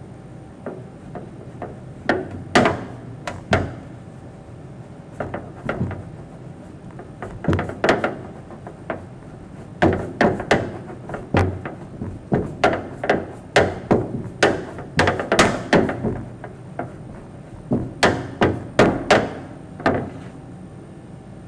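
A series of sharp knocks, irregular and coming in runs of several a second with short pauses between, over a steady low hum.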